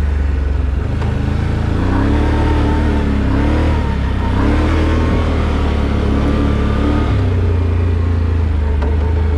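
Off-road vehicle's engine running at low speed on a trail, its revs rising and falling as it crawls over rough ground.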